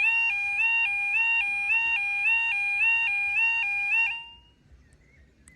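Level crossing warning alarm sounding a two-tone electronic yodel that alternates high and low about twice a second, then stops abruptly about four seconds in. It sounds as the crossing closes for an approaching train.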